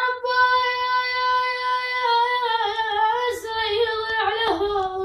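A child singing a mawwal unaccompanied: one long, ornamented vowel held on a high note, stepping down in pitch about four seconds in.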